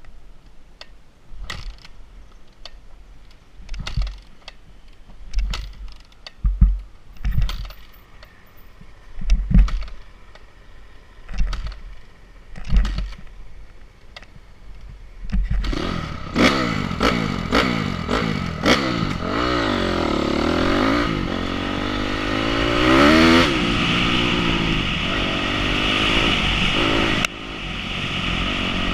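Scattered thumps and clicks for about the first half, then an enduro motorcycle engine starts up loud, its pitch rising and falling repeatedly as it is revved and ridden, with a sudden drop in loudness near the end.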